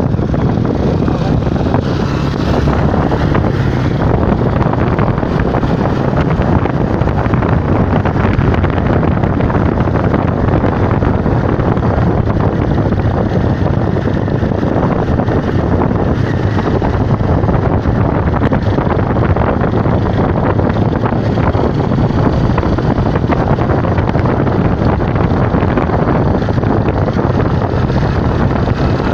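Steady wind noise rushing over the microphone during a bike ride, with a low hum underneath.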